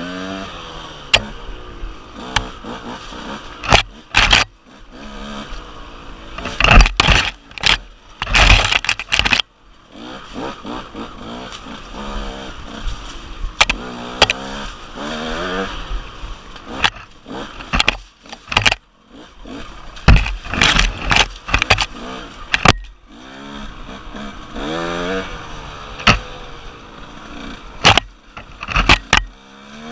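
KTM 150 two-stroke dirt bike engine revving up and down over and over while riding, broken by many sudden loud thumps and scrapes.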